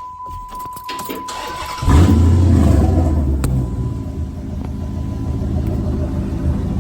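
2006 Dodge Magnum's 5.7 HEMI V8 starting through an exhaust with the muffler and resonators cut out, only catalytic converters and an X-pipe left. A steady chime tone and brief cranking come first. The engine catches about two seconds in with a loud flare, then settles into a steady idle.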